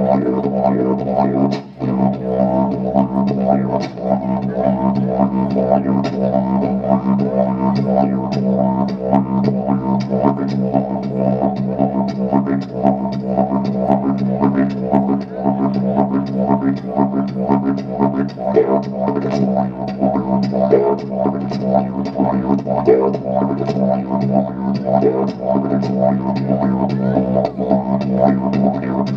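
Music: a low droning instrument holds one steady note, with a fast rhythmic pulsing over the drone and a brief break about two seconds in.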